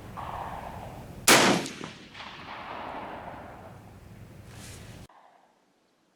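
A single rifle shot about a second in, ringing out afterwards, then the sound cuts off abruptly near the end.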